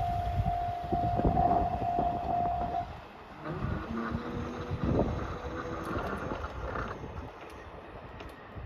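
A diesel train runs past a level crossing, its wheels knocking over the rail joints, and the sound fades as it moves away. The crossing's pulsing warning tone rings at first and stops about three seconds in.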